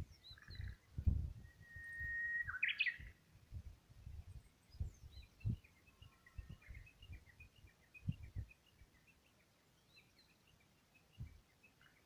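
Songbird singing: a long held whistle that ends in a quick rising and falling flourish, then a run of short chirps. Low thumps of handling noise on the microphone come and go, the loudest about a second in.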